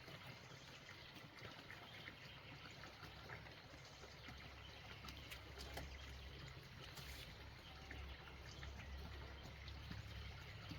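Faint trickling water, with scattered small clicks and a low rumble.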